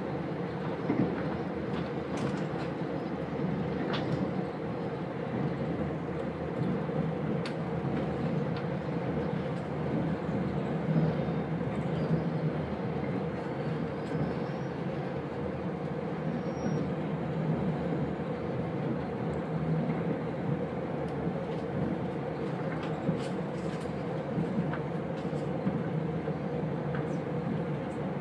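Steady rumble of a diesel passenger train running at speed, heard from inside the carriage, with a few faint clicks from the track.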